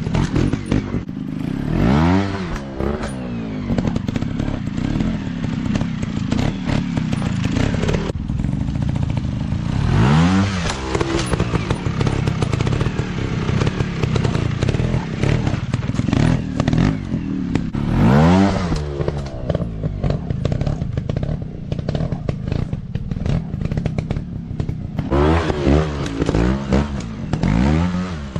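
Dirt bike engines running hard, revs climbing sharply about two seconds in, around ten seconds, around eighteen seconds and twice near the end, with clattering and scraping throughout.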